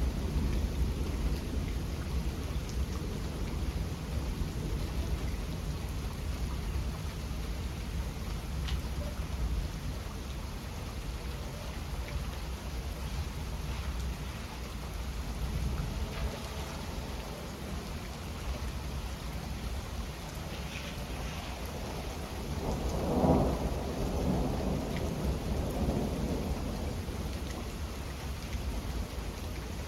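Steady rain falling, with thunder rumbling low and continuously; a louder roll of thunder swells and peaks about three quarters of the way through, then fades.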